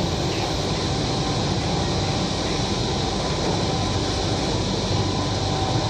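Steady running noise inside a Kochi Metro carriage: an even rumble and hiss of the train in motion, with a faint constant hum underneath and no sudden changes.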